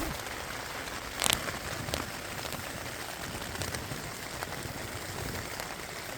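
Steady rain falling in a forest, with single drops tapping close by; one louder tap about a second in.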